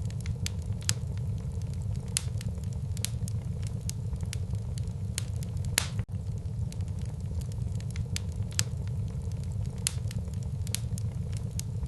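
Wood fire burning in a fireplace: irregular sharp crackles and pops of burning wood over a steady low rumble of the flames.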